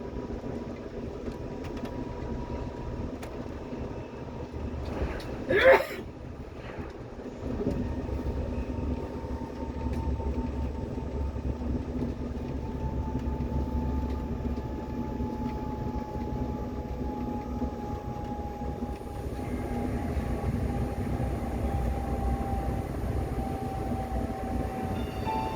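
Train running along the track, heard from inside the carriage: a steady rumble and hiss with a thin whine that slowly falls in pitch. About six seconds in there is one brief loud sweep, after which the running noise grows louder.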